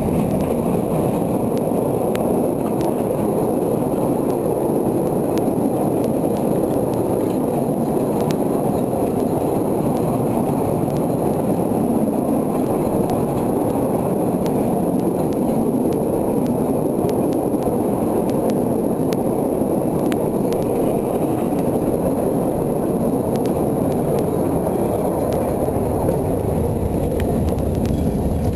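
Steady rumble of a narrow-gauge train in motion, heard from an open wagon: wheels and running gear on the track, with faint light clicks.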